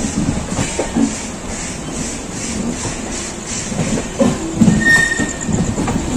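Express train coach running through a station yard, heard from on board: steady rumble of the wheels with irregular knocks over rail joints and points, and a brief high wheel squeal about five seconds in.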